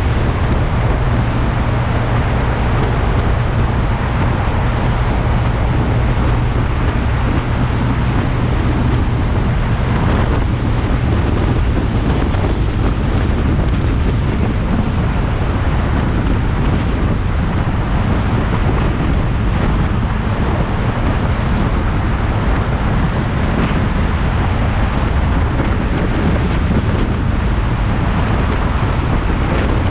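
Motorcycle riding at a steady speed: continuous engine and road noise with a heavy low rumble and wind on the microphone.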